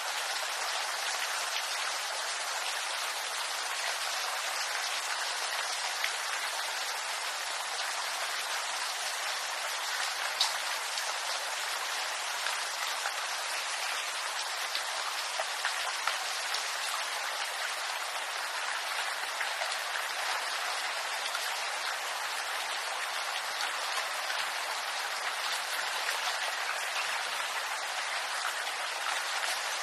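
Steady rain falling on bamboo leaves: an even hiss of many fine drop ticks, with an occasional louder single drop, one of them about ten seconds in.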